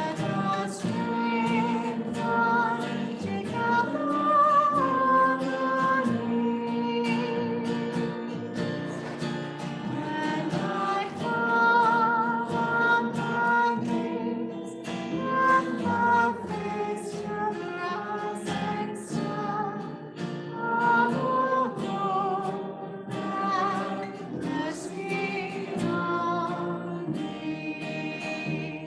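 Singing with guitar accompaniment: a vocal melody with vibrato over strummed acoustic guitar.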